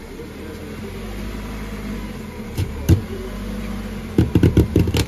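Car engine idling steadily, with a single thump about three seconds in and a quick run of about eight thumps near the end.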